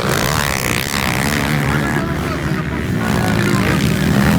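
Motocross motorcycle engines racing, their revs rising and falling.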